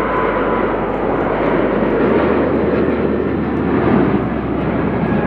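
Jet airliner engines running loudly: a steady rush of engine noise, with a thin whine fading out near the start.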